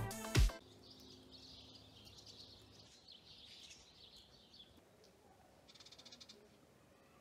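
A music track ends with a last loud note just after the start. Then comes faint outdoor ambience with distant small birds chirping, and a short, fast, ticking trill about six seconds in.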